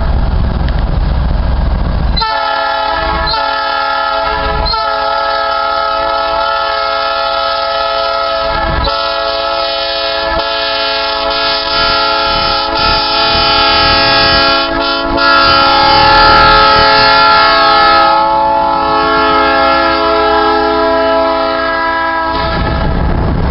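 Diesel locomotive horn sounding: two short blasts about two seconds in, then one long blast held for some seventeen seconds, cutting off near the end. A low train rumble runs under it and carries on after the horn stops.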